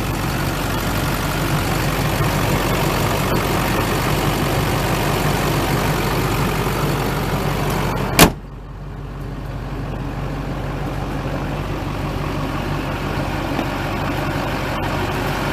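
6.6 liter Duramax turbo diesel idling steadily with the hood open. About eight seconds in, the hood slams shut with one loud bang, and the idle then sounds more muffled.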